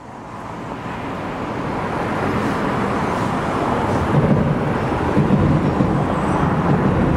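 Road traffic at a junction with a JR train crossing the elevated railway bridge overhead. The sound fades in over the first two seconds, and a low rumble from the train builds from about four seconds in.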